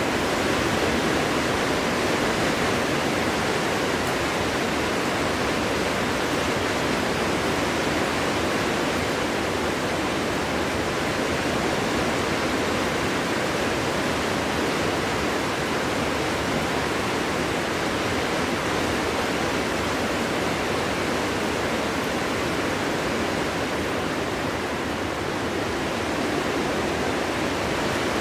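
Wind blowing through a forest as a steady, even rush with no single gust standing out.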